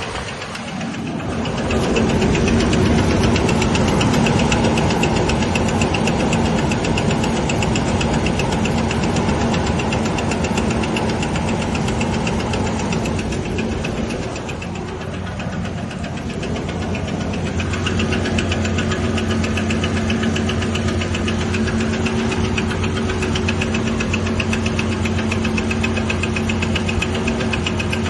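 2000 Ford Ranger XLT engine running with a steady, rapid knocking noise; the owner has ruled out the crankshaft and the camshaft as its cause. The engine's sound dips and changes about halfway through.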